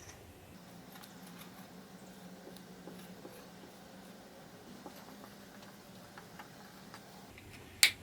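Quiet room tone with faint scattered ticks and light handling noises, and one sharp click near the end.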